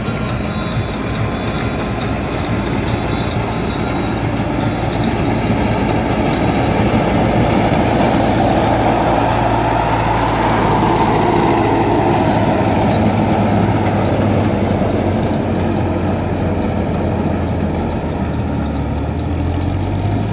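Tractor engine running steadily, a little louder in the middle stretch.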